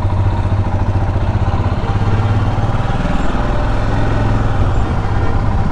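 Royal Enfield Himalayan's 411 cc single-cylinder engine idling steadily, a low, evenly pulsing engine note.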